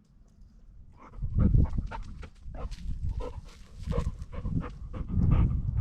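A golden retriever panting in quick, uneven breaths, starting about a second in.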